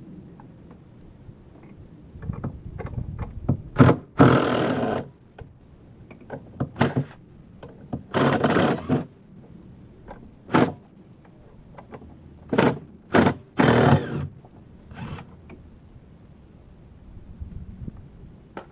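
Irregular thunks and knocks of parts and tools being handled during a teardown of a car-audio install in an SUV's cargo area, with a few longer scraping sounds of about a second each.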